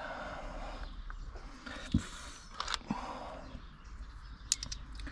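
A few scattered metallic clicks and knocks of hand tools and sockets being handled and set down, over a low steady background hum.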